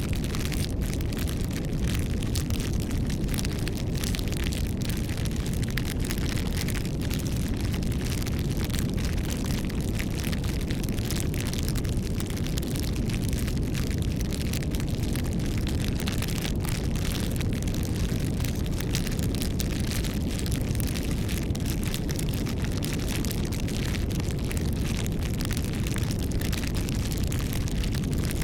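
Wood bonfire burning, with frequent small crackles and pops over a steady low rumble.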